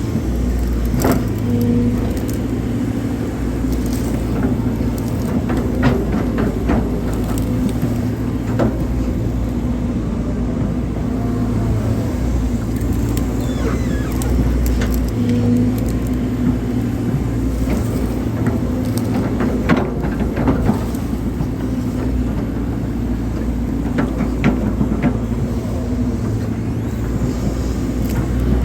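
Hydraulic excavator's diesel engine running under working load, its drone swelling and easing every few seconds as the hydraulics work, with scattered knocks and clanks throughout.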